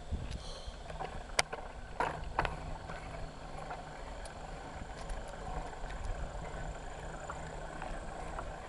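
Bicycle rolling along a trail, heard from a handlebar-mounted camera: a steady low rumble of tyre and frame noise, with sharp clicks and rattles from the bike over bumps, the loudest about a second and a half and two seconds in.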